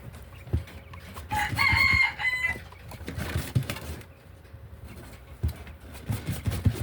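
A rooster crowing once, a pitched call of a little over a second starting about a second in, with scattered low thumps and knocks around it.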